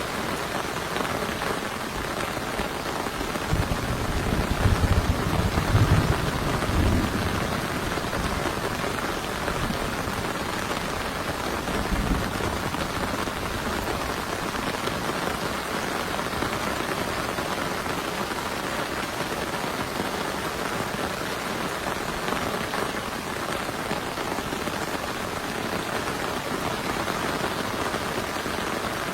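Heavy rain falling steadily. A low rumble of thunder swells from about 3.5 to 7 seconds in, and a shorter one comes about 12 seconds in.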